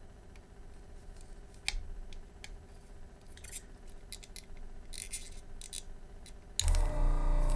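Light clicks and scrapes of a desoldering gun tip being worked on a circuit board's solder joints. Near the end, the Yihua 948's built-in vacuum pump switches on suddenly with a loud, steady hum to suck the melted solder out.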